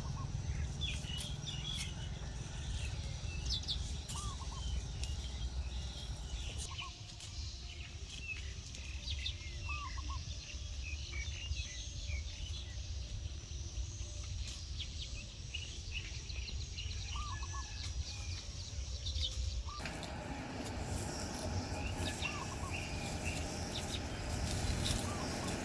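Many birds chirping and calling in short notes over a steady low rumble.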